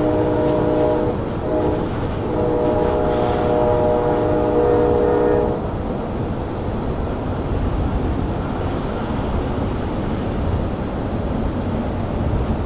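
Locomotive horn sounding a chord: one blast ending about a second in, then a longer blast of about three and a half seconds, over the steady low rumble of a moving train that carries on after the horn stops.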